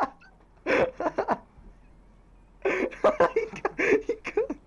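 Laughter: a short burst about a second in, then a longer stretch of choppy laughing through most of the second half.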